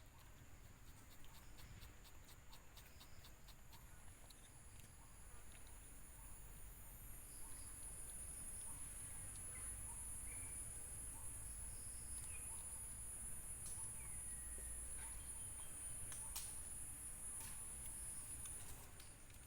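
Outdoor ambience: a steady high-pitched insect drone that sets in a few seconds in, with scattered short bird chirps and a few faint clicks over a low rumble.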